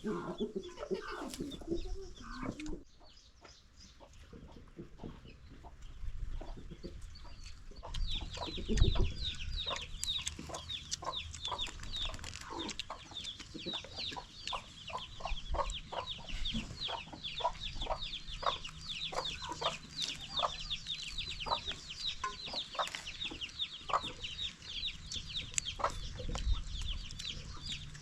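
Chickens clucking, with a dense run of quick high chirps that sets in about eight seconds in.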